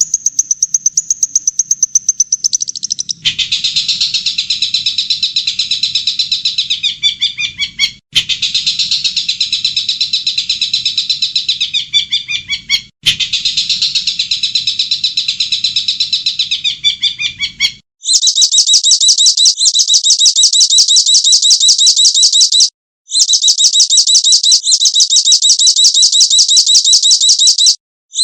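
Recorded songbird song spliced into a tutor track: a high, thin twitter, then a dense rolling warbling song that cuts off abruptly and restarts twice, then, about two-thirds of the way in, a very fast, even high-pitched trill broken by a couple of brief gaps.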